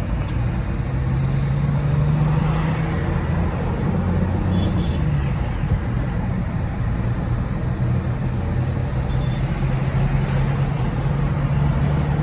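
Truck engine running under way with steady road noise, its pitch shifting up and down a few times as the speed changes.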